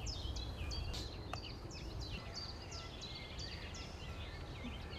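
Songbirds singing, a run of quick, high, falling notes several times a second, over a low steady rumble.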